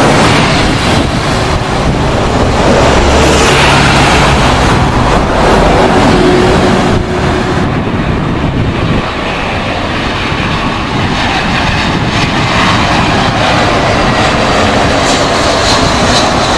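Jet airliner engines running loud and continuous as an aircraft passes, with a whine that bends in pitch in the later part, mixed with wind buffeting the microphone.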